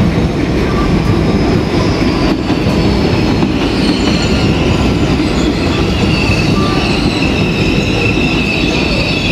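Passenger train running along the rails with a steady rumble, and a high-pitched wheel squeal that grows stronger in the second half.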